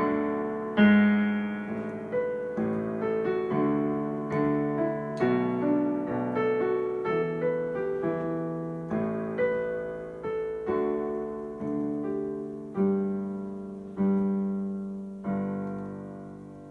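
Piano playing a slow, lyrical melody over chords, each note struck and left to ring and fade. About fifteen seconds in, it strikes a final chord that dies away.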